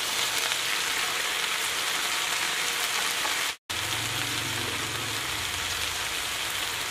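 Sliced napa cabbage and red chilies sizzling steadily in a hot pan as they wilt, breaking off for a moment about halfway through.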